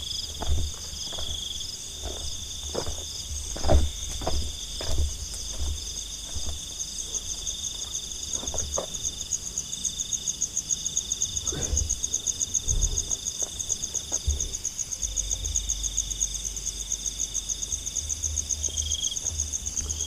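Night insects calling steadily: one high, fast-pulsing trill and a lower buzzing call that starts and stops. Soft footsteps on the forest floor thud now and then, mostly in the first half.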